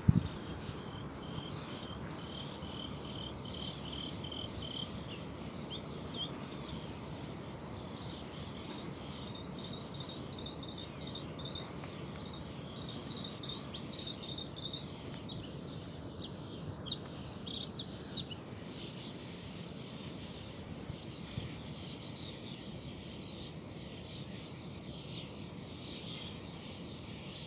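Outdoor ambience: a steady low background noise with small birds chirping and calling on and off, including a run of quick repeated chirps near the end.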